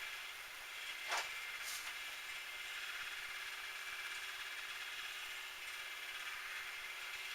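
Metal lathe running steadily, with a brief louder scrape about a second in.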